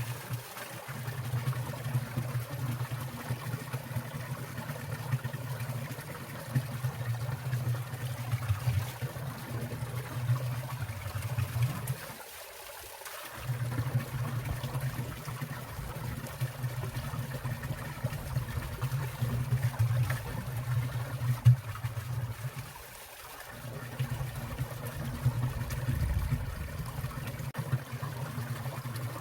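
Water in a winter mountain stream trickling and splashing steadily, with a low rushing undertone that briefly drops away twice, about halfway through and again near the end.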